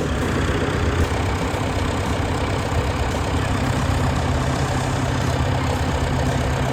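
Car engine idling steadily, with a strong, even low hum throughout.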